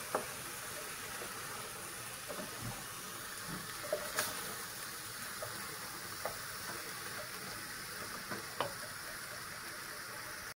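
Musakka filling of minced meat and green peppers sizzling steadily as it fries in an aluminium pan, stirred with a wooden spoon that knocks against the pan a few times.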